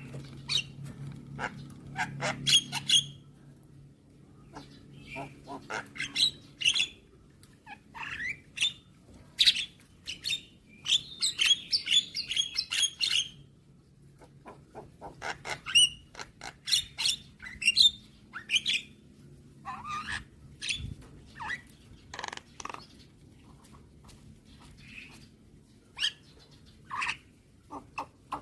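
Javan myna calling: an irregular run of sharp chirps, clicks and short whistled notes, with a quick rattling string of notes about halfway through.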